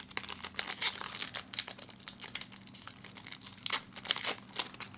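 Plastic wrapper of an Upper Deck hockey card pack crinkling and tearing as it is worked open by hand, with irregular crackles and a couple of louder crinkles near the end.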